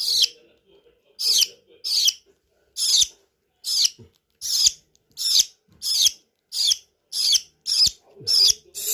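Budgerigar chick giving short, high, raspy calls over and over in a steady rhythm, about three every two seconds: begging calls while being hand fed.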